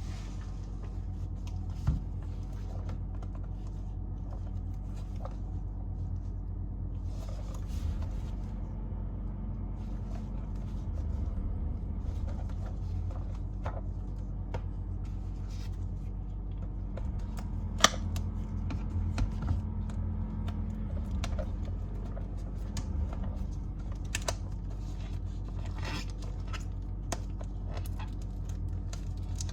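Hands handling small objects on a table: scattered clicks, scrapes and rustles, with one sharper click about 18 seconds in, over a steady low hum.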